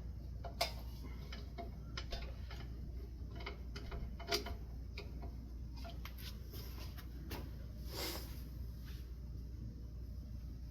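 Scattered small clicks and taps of ceiling fan parts being handled and fastened by hand, over a steady low hum.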